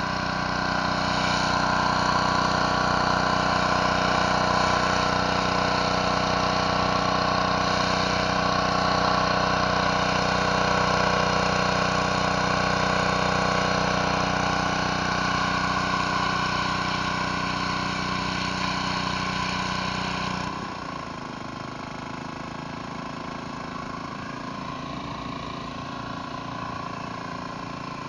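Gas-engine pressure washer running steadily, with the hiss of water spraying from the surface cleaner. About twenty seconds in, the sound drops suddenly and runs on quieter and thinner.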